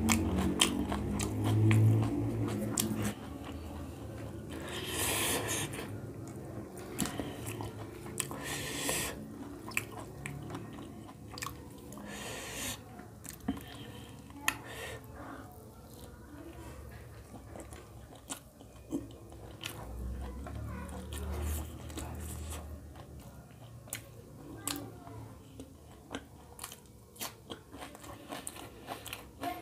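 Close-up eating sounds: chewing and biting with many small wet mouth clicks and a few louder crunches of raw onion. A low voiced hum comes in the first few seconds.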